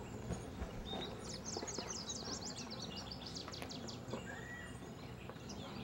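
Faint outdoor ambience with a steady low background. A bird sings a quick run of high chirps, starting about a second in and lasting about two seconds, and a single short whistle follows near the end.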